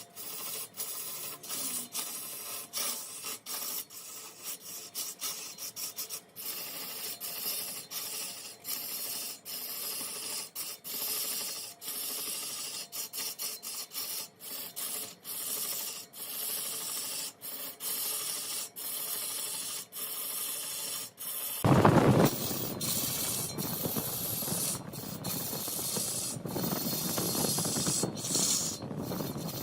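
A tool scraping against mahogany spinning on a wood lathe: a steady hissing scrape broken by many short gaps. About 22 seconds in it turns suddenly louder and fuller, loudest right at that change, and stays heavier to the end.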